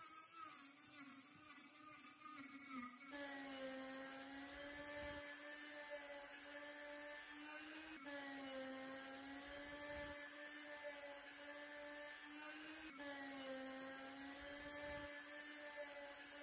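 A small electric power tool, such as a drill or rotary tool, running at a steady speed with a high whine. It cuts off and restarts sharply about three, eight and thirteen seconds in.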